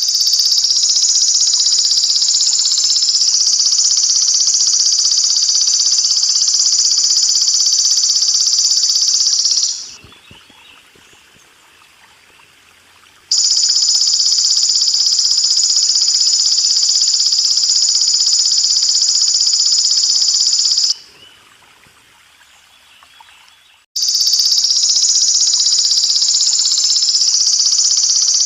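Belalang emas (golden grasshopper) insect buzzing in a loud, continuous high-pitched drone, breaking off twice for a few seconds before starting again. Running water trickles underneath.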